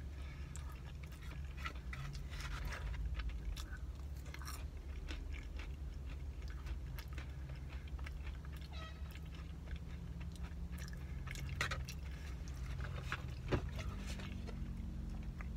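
Close-up chewing of a caramel pecan cinnamon roll: moist mouth clicks and small crunches as the pecans are bitten. A steady low hum sits underneath, with one sharper knock near the end.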